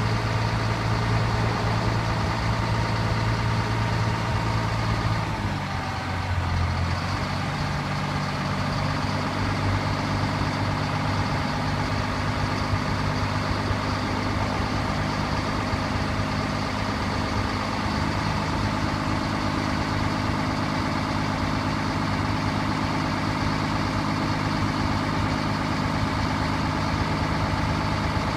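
Diesel engine of a 1996 Freightliner roll-off truck running steadily, its pitch shifting about six seconds in and again a little past the middle.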